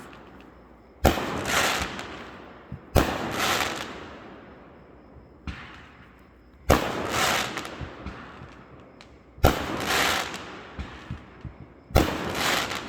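Fireworks bursting: five loud bangs a few seconds apart and one smaller pop, each trailing off in crackle and echo over a second or two.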